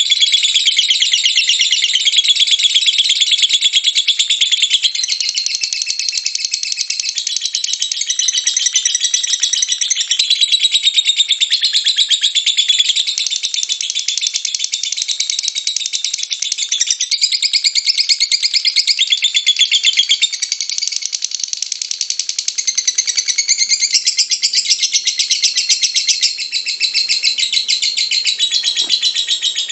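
Lovebird singing a long, unbroken run of rapid, high chattering notes: the drawn-out trilling song that bird-keepers call ngekek.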